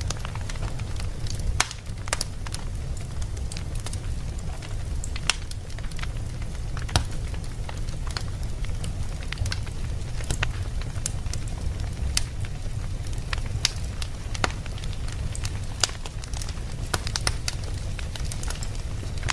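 Fire burning in a fireplace: irregular sharp crackles and pops, several a second, over a steady low rumble.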